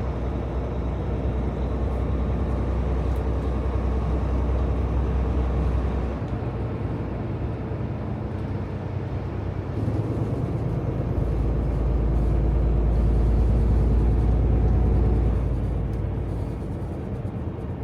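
Semi-truck's diesel engine droning with road noise while driving. The low drone eases about six seconds in, then swells again and is loudest a little past the middle before settling back.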